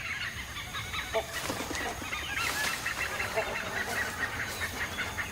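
Many birds calling at once: a dense chatter of short, overlapping high calls with a few lower calls among them.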